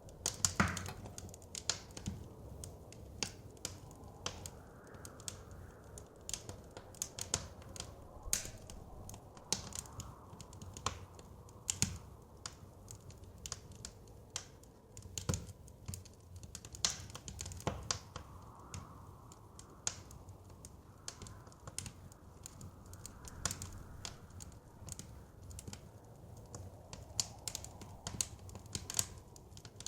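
Wood fire crackling, with frequent irregular sharp pops and snaps, over a steady low rumble of wind that swells softly now and then.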